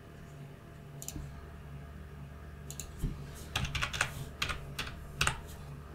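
Computer keyboard keys tapped a handful of times at irregular intervals, mostly in the second half, over a faint steady low hum.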